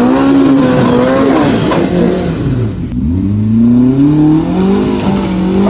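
Side-by-side UTV engine revving under load: the revs climb, drop away about two and a half seconds in, then climb again and hold.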